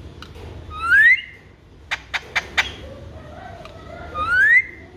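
Alexandrine parakeet giving two rising whistles, about a second in and near the end, with four sharp clicks between them.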